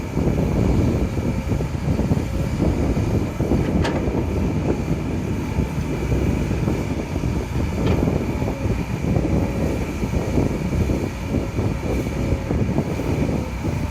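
Kobelco SK200 excavator's diesel engine and hydraulics running under load while it digs and loads soil into a dump truck. A steady rumble with a faint whine, and light clanks about 4 and 8 seconds in.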